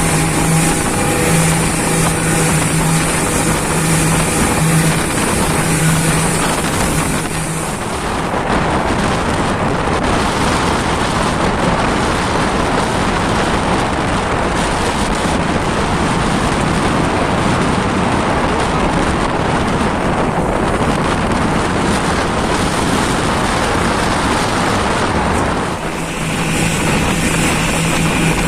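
Motorboat engine running with a steady drone. About eight seconds in it gives way to a loud, even rushing of wind and water, and the engine drone returns near the end.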